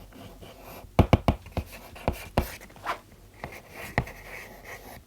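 Writing on a board by hand: a series of short taps and faint scratches of the pen or chalk, the sharpest clustered about a second in.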